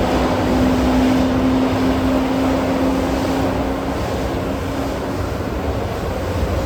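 ED4M electric multiple unit running along the track: a steady rumble of wheels and running gear, with a steady electric hum over it that weakens about four seconds in.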